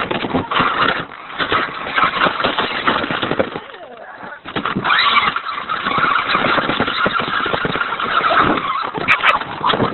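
Radio-controlled toy Hummer truck driving, its small motor whining at a fairly steady pitch over a rough crackling noise, with a brief lull a few seconds in.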